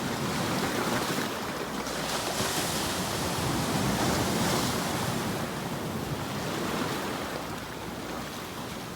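Surf: waves washing in as a steady rush that swells and eases, a little quieter near the end.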